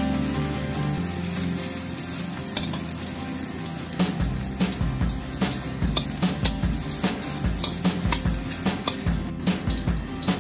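Sliced garlic and shallots sizzling in hot oil in a steel pan, with a spatula scraping and clicking against the pan as they are stirred.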